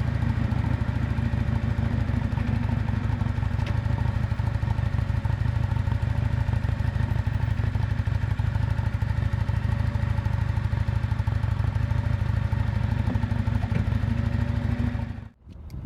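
Exhaust of a 1998 Yamaha Drag Star 400 Classic's V-twin, running steadily at an even cruising speed. It cuts off abruptly near the end.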